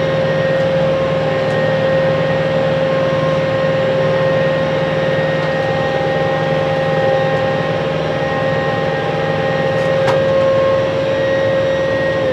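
Kubota M6-141 tractor's diesel engine and power-shift drivetrain running steadily while under way in low gear, with a constant high whine over the engine note.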